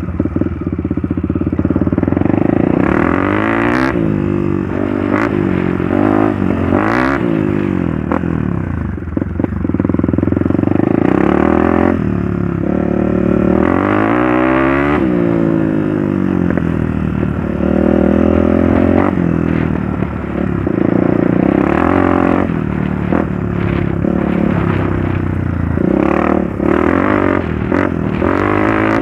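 Trail motorcycle engine being ridden, the revs rising and falling again and again as the rider throttles and shifts, with a few knocks and clatter from the bike over rough ground.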